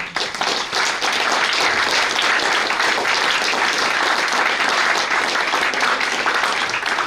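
Audience applauding: dense clapping that starts suddenly and holds steady, easing off slightly at the very end.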